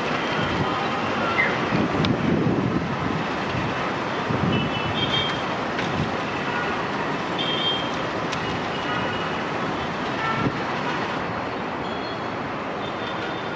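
Passenger train running away on the rails, its wheels and coaches making a steady rumble that slowly fades.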